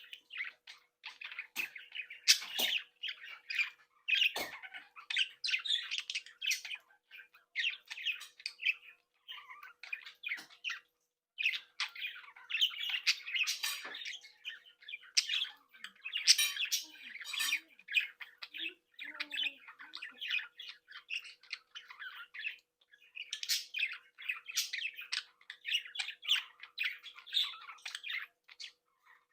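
A group of young budgerigars chattering, chirping and squawking all together without a break, with frequent sharp calls over the warbling.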